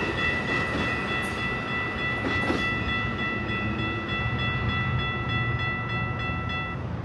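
A train passing, its rumble and rail noise slowly dying away. A steady high tone is held over it and stops near the end.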